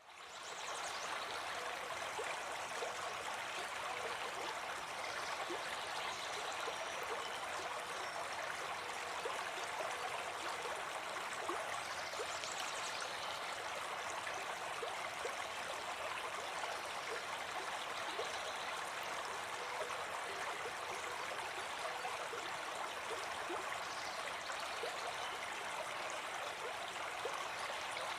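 River water running over rocks: a steady, even rushing and babbling that fades in over the first second.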